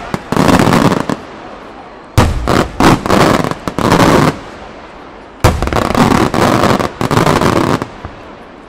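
Maltese beraq fireworks shells and salutes bursting overhead in three loud volleys, about two to three seconds apart. Each volley opens with a sharp bang and runs on for a second or two as a dense string of rapid reports.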